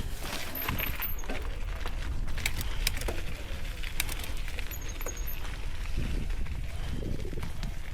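Riding a mountain bike over rough wet ground: wind buffets the microphone in a steady low rumble, with the bike's rattles and clicks over it and a couple of brief high squeaks.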